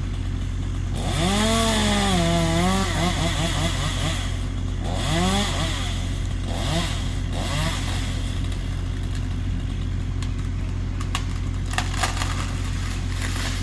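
Chainsaw idling and being revved up and down as it cuts branches, its pitch rising and falling several times in the first half, with a few sharp cracks near the end.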